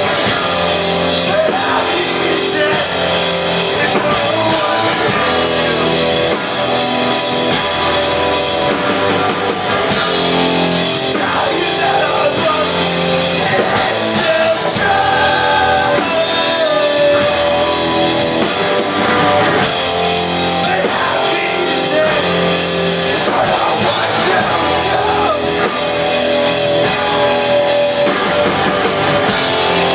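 Live rock band playing loudly, with electric guitars and a drum kit, and some singing mixed in.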